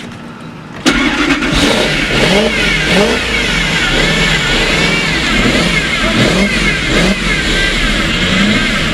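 1995 Lexus SC400's V8 engine bursting into life about a second in, then running unevenly with the revs rising and falling. It has just been brought back to running after being sold as locked up, and it does not want to stay running or idle yet.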